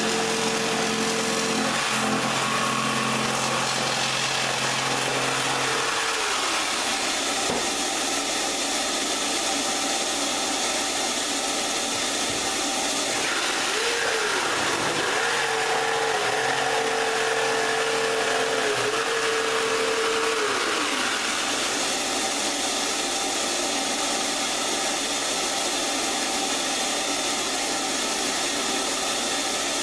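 Electric power tool motor running continuously over a steady rushing hiss; its pitch sags as it takes load, about six seconds in and again in the middle, then comes back up.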